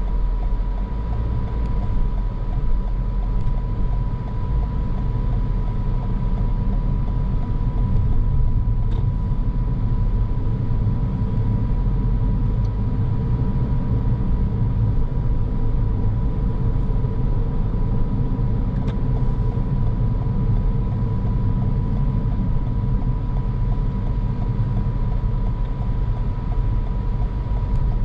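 A car driving at a steady pace: continuous low road and engine rumble with tyre noise, and a thin steady tone running through it.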